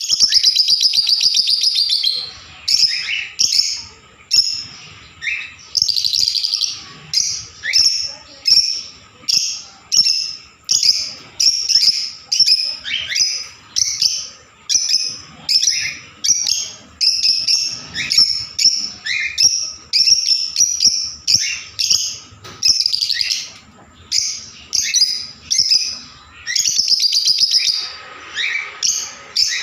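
Pet love birds (small parrots) calling with shrill high chirps. A continuous rapid chatter in the first two seconds gives way to short calls repeating about once or twice a second.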